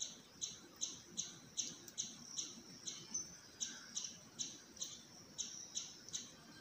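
A bird calling steadily, a short, high, slightly falling chirp repeated evenly about two and a half times a second.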